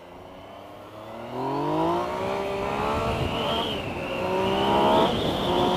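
A 2016 Yamaha FZ-09's inline three-cylinder engine accelerating hard from a pull-away. Its pitch climbs steadily and drops back at a gear change about two seconds in and again about five seconds in.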